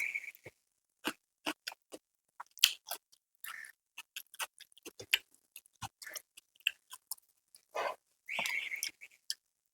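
Close-miked eating: irregular wet mouth clicks and chewing, with a few short crunchy bites.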